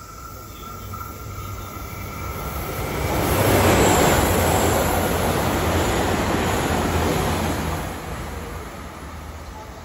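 Chizu Express HOT7000-series diesel limited express (Super Hakuto) running through the station at speed without stopping. The rush of wheels and engines builds from about a second in, is loudest for several seconds in the middle, then fades as the train goes by.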